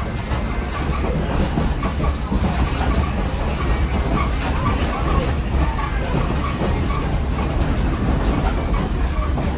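Steady rumble of a passenger coach rolling along the track on the Great Smoky Mountains Railroad, with wheel and rail noise.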